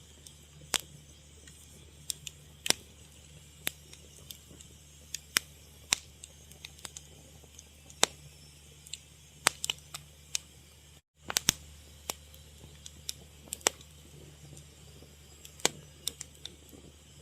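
Fire crackling: irregular sharp pops and snaps, some much louder than others, over a steady low hum. The sound cuts out for a split second about eleven seconds in.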